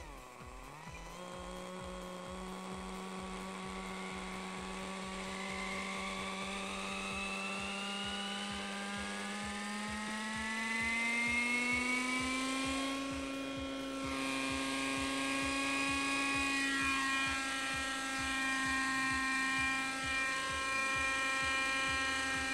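Kyosho Nexus 30 nitro RC helicopter's glow engine and rotor running, the engine note climbing steadily in pitch over several seconds as the throttle comes up and the rotor spools up to lift off, then holding steady at the higher speed.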